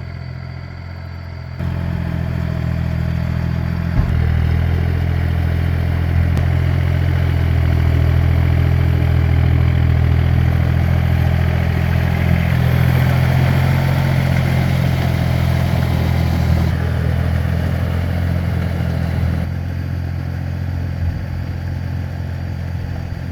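Tractor engine running steadily under load, picking up speed about one and a half seconds in and again at about four seconds, then easing back down near the end.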